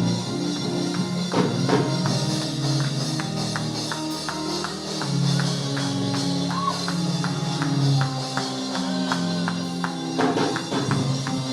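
Lively church music: sustained low chords under a fast, busy beat of sharp percussion strikes, with tambourine prominent.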